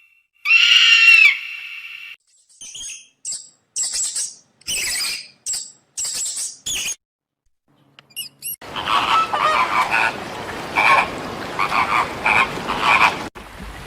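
A run of animal calls in separate clips. First comes a single pitched call lasting about a second and a half, then a string of short raspy calls. From about the middle a dense chorus of overlapping croaking calls takes over and cuts off abruptly near the end.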